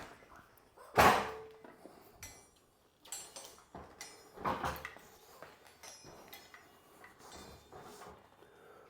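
A series of clunks and knocks of parts and tools being handled. The loudest is a sharp knock about a second in with a brief ring after it, and another comes about halfway through.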